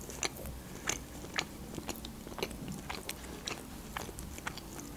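Close-miked chewing: a person's mouth making soft, irregular clicks while eating.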